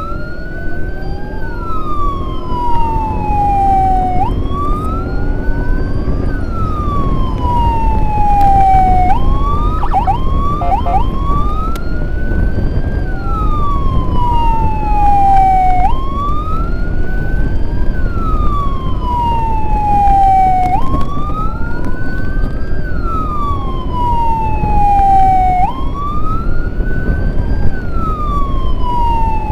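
Emergency-vehicle siren wailing in a repeating cycle: each sweep climbs quickly, then falls slowly, about every five seconds, over steady engine and road noise. Around ten seconds in, a few quick chirps break in.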